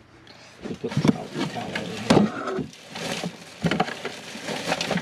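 Irregular knocks, taps and scraping clatter of hands working with tools and parts, in quick uneven succession.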